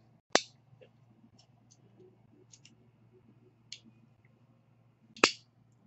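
Two sharp clicks about five seconds apart, with a weaker click and a few faint ticks between them.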